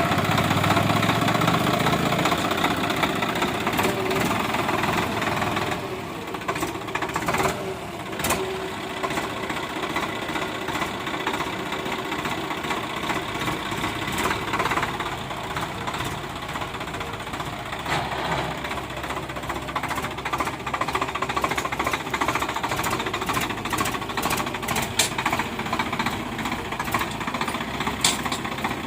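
Tractor diesel engine running with a knocking clatter, louder for the first several seconds, then settling lower.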